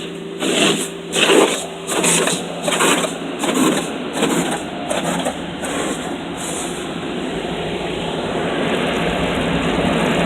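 Automatic car wash equipment running: a regular swishing of water spray pulsing about every three quarters of a second, giving way after about seven seconds to a steady rushing noise that slowly grows louder.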